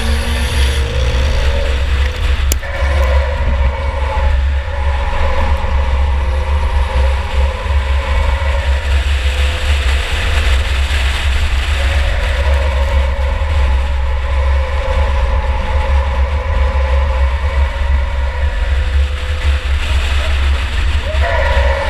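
A 2004 Chevy Impala enduro race car's engine running hard, heard from inside the car as a loud, heavy low rumble whose pitch rises and falls with the throttle, under a haze of road and chassis noise. There is one sharp knock about two and a half seconds in.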